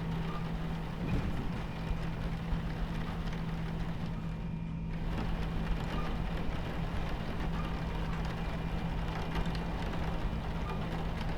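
Steady rumble of a train running over the tracks with a constant low hum, mixed with rain on the carriage window. The rain hiss briefly drops out about four and a half seconds in.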